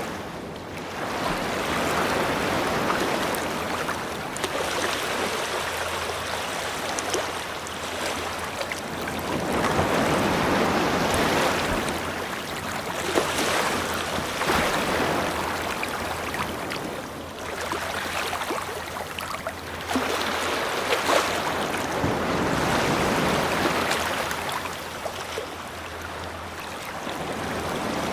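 Ocean surf: waves breaking and washing up the shore, the hiss of water swelling and easing every few seconds.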